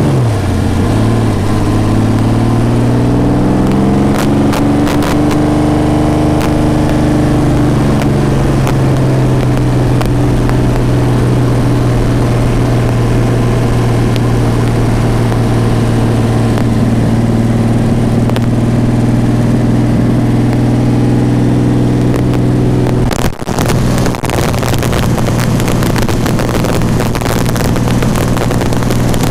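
Shelby AC Cobra's 12-cylinder marine racing engine pulling the car on the road, heard from inside the open car. Its pitch dips at the start, climbs over the next several seconds as the car speeds up, then holds steady. It falters briefly about 23 seconds in, with some wind buffeting after.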